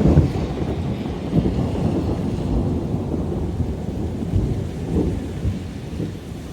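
Rolling thunder rumbling low, loud at the start and slowly dying away, with a brief swell about five seconds in, while rain falls.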